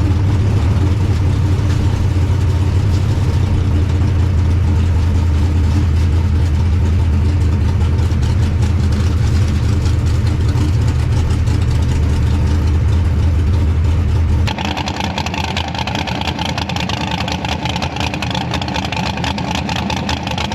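Small-block V8 street car engine running steadily with a strong, even low drone. About two-thirds of the way through, the sound switches abruptly to a brighter, harsher engine note with less low end.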